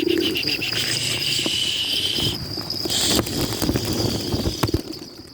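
Insects shrilling with a steady high tone, joined for the first two seconds by a pulsing, buzzing trill that stops abruptly. Scattered sharp taps and a short hissy burst about three seconds in.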